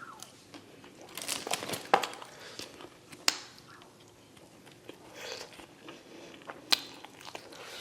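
Close-up eating sounds: biting into and chewing waffle fries, with a few sharp clicks scattered through.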